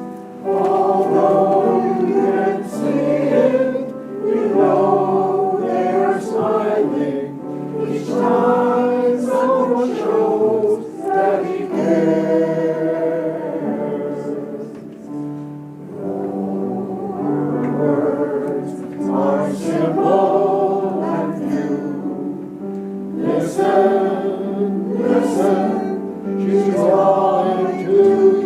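Choir singing a song in sustained phrases, with short breaths between lines.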